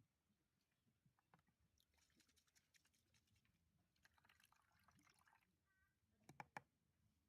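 Near silence: faint room tone with scattered small clicks and soft rustles, and a few sharper ticks near the end.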